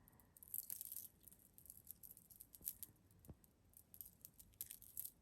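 Faint, scattered clicks and light rattling of a Murano glass bird necklace being handled, its glass pieces knocking together.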